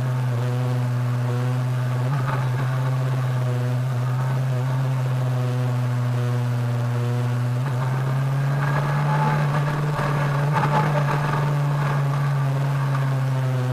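Kawasaki ZRX1200R inline-four motorcycle engine running at a steady speed on the move, the note rising slightly about eight seconds in with more rushing noise for a few seconds.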